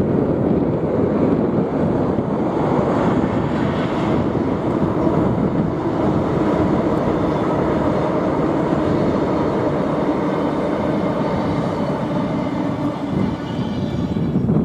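Class 90 electric locomotive and its coaches crossing a steel girder bridge: a steady rumble of wheels on the rails, with wind on the microphone.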